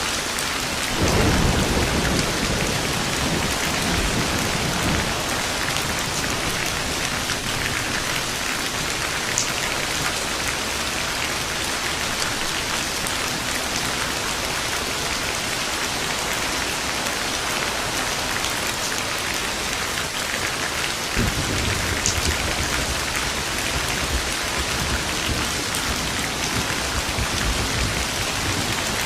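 Steady heavy rain with rolling thunder: a low rumble about a second in that fades over a few seconds, and another that breaks about two-thirds of the way through and rolls on for several seconds.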